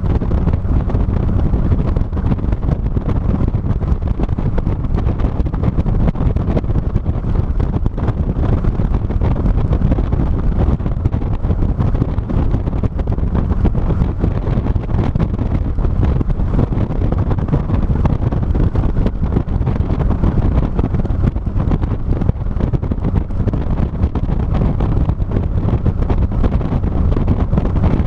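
Heavy wind buffeting the microphone of a camera mounted on the back of a moving 2006 Mazda MX-5 (NC) Miata, a loud, steady low rumble that covers any engine and road sound.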